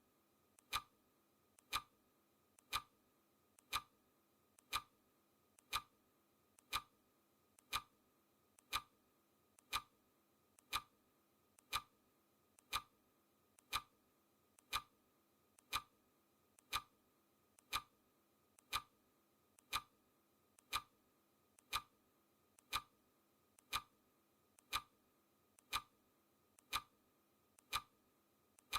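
Clock ticking steadily once a second, each crisp tick led by a fainter click just before it.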